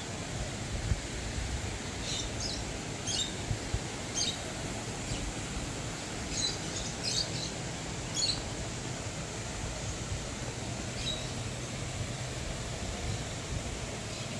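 Birds chirping in short, high calls, in several quick clusters over the first half and once more later, over a steady background hiss of outdoor ambience.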